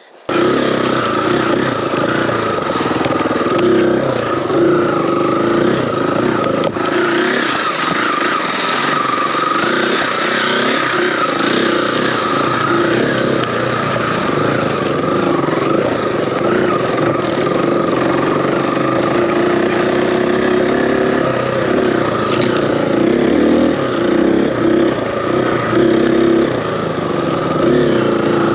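Single-cylinder four-stroke dirt bike engine running under changing throttle while riding a trail, with the pitch rising and falling as the rider works the throttle.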